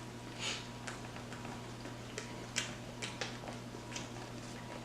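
Faint, scattered clicks and short crunchy bursts of someone eating fast food: chewing, plus the odd tap or rustle. A steady low electrical hum runs underneath.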